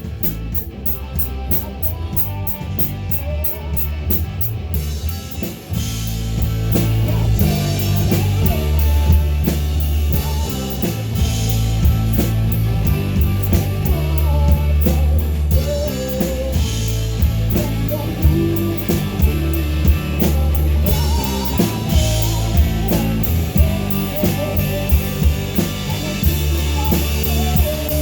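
Live rock band playing: electric guitar, bass and drum kit. A light, regular cymbal beat opens, and the full band comes in louder about six seconds in.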